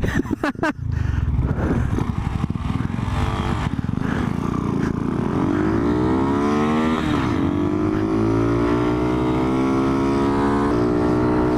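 Monkey bike's small single-cylinder engine revving hard under acceleration while riding. Its pitch climbs, drops sharply at a gear change about seven seconds in, then rises again and settles at a steady cruising note.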